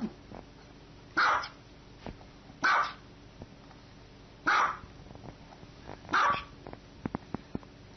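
A small dog barking four times, single sharp barks about a second and a half apart.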